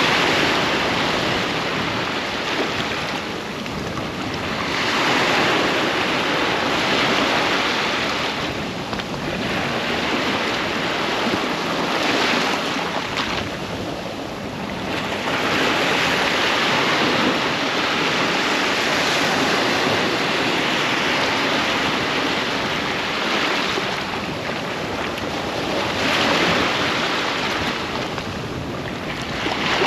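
Ocean surf breaking on a sandy beach, waves washing in one after another. The rush swells and ebbs every few seconds.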